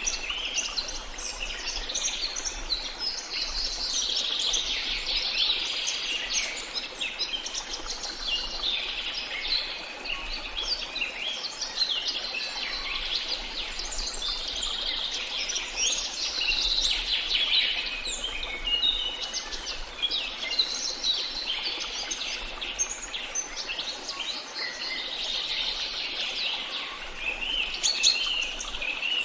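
A chorus of songbirds chirping and singing, with many quick, high calls overlapping without a break and a sharper flurry of chirps near the end.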